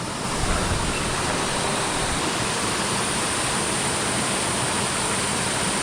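Rainforest creek water rushing steadily over rocks: an even, unbroken hiss.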